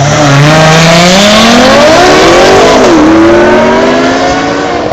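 Supercar engine accelerating hard at full throttle, very loud, its pitch climbing steadily, dipping once with a quick upshift just under three seconds in, then climbing again.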